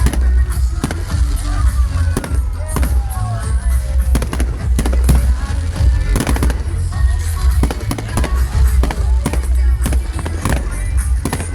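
Fireworks going off in quick succession: many sharp bangs and crackles at irregular short intervals over a constant low rumble.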